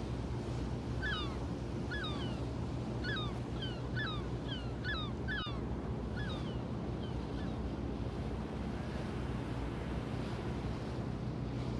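A boat's engine runs steadily under wind and water noise. From about a second in to about seven seconds in, a bird gives a series of short calls that rise and then drop in pitch, several each second.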